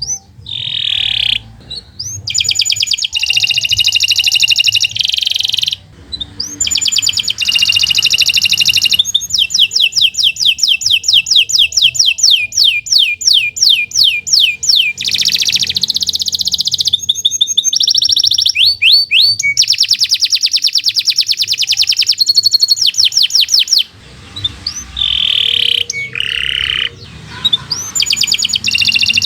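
Domestic canary singing a long, nearly unbroken song of fast trills and rolling repeated-note phrases, with a short break about four-fifths of the way through.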